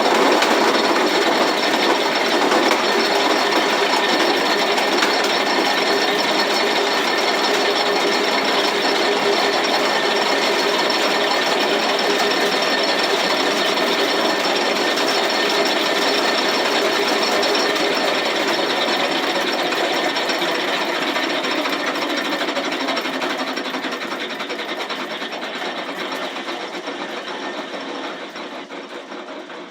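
Antique roller mill running and crushing grain between its rollers: a dense, steady, fast mechanical rattle that slowly fades over the last several seconds.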